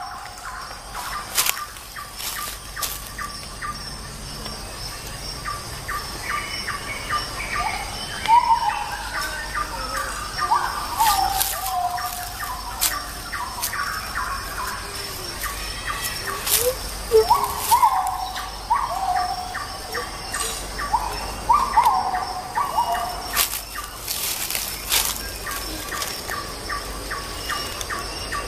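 Bird calls: repeated short whistled calls, many falling in pitch, with sharp clicks scattered among them.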